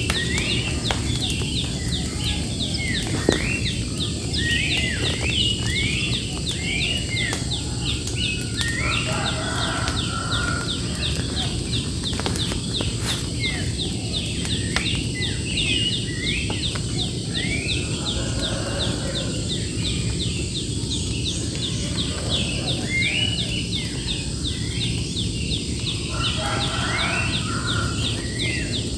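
Wild birds singing and calling over and over, with many quick sweeping notes, against a steady outdoor background noise.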